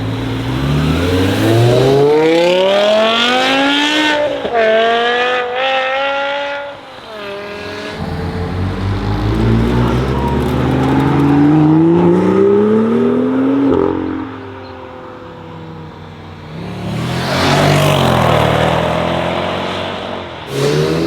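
Modified performance cars accelerating hard away one after another, engine pitch climbing steeply. The first car shifts up about four seconds in and pulls on. A second car revs up through its gear from about eight seconds, and another loud car passes near the end.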